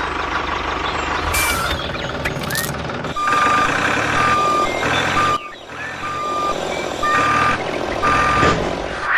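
Vehicle reversing alarm beeping at one steady pitch, about once a second, starting about three seconds in, over a constant rushing background noise.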